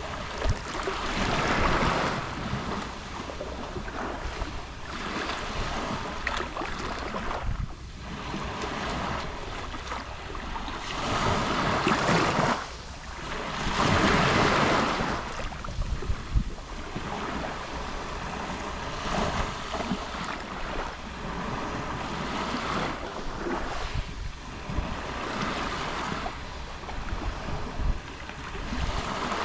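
Gentle sea waves lapping on a Mediterranean shore, each wash swelling and fading every few seconds, with some wind noise on the microphone.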